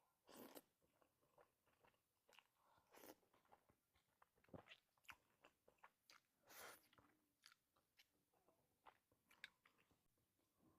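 Faint, irregular eating sounds: chewing and crunching bites of food, with scattered short mouth clicks and a few longer noisy crunches.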